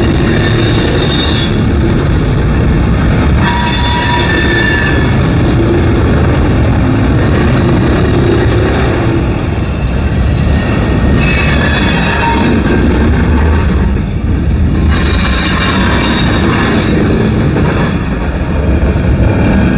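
Cars of a Union Pacific manifest freight train rolling past close by: a steady rumble of wheels on rail, with high-pitched wheel squeal that comes and goes several times.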